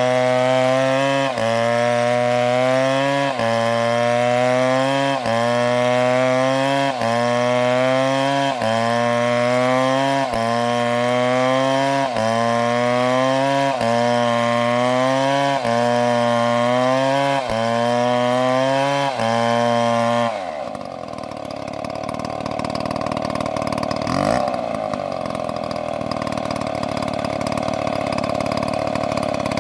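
Chainsaw running hard in a cut, its pitch sagging and climbing back in a regular cycle about every two seconds. About twenty seconds in, the throttle is let off and the engine drops to a lower, rougher idle.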